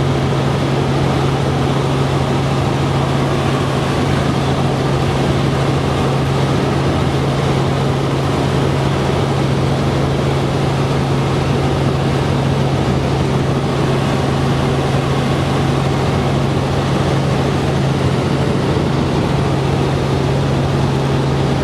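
Helicopter engine and rotors running steadily, a loud constant noise with a steady low drone.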